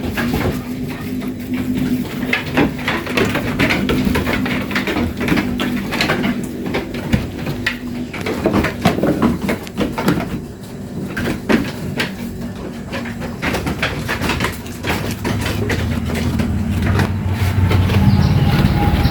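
Goat-pen sounds: many irregular knocks and clatters over a steady low hum, with a louder low rumble building near the end.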